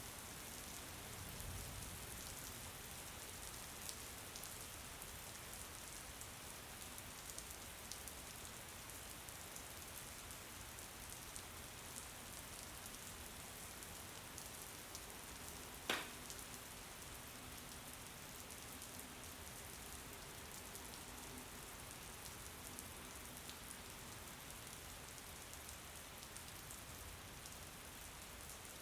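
Steady, fairly faint rain with scattered ticks of single drops. A single sharp click about halfway through.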